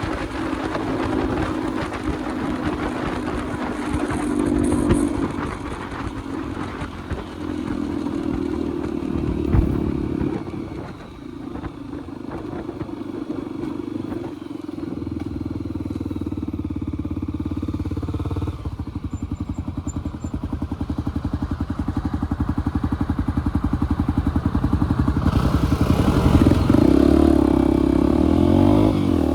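Single-cylinder motorcycle engine running while riding: the revs ease off about a third of the way in, settle into an even low thudding beat, then climb again as it speeds up near the end.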